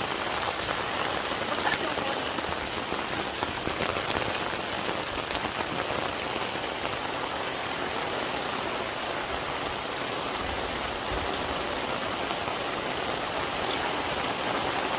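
Heavy rain falling steadily, an even, dense hiss of drops hitting surfaces.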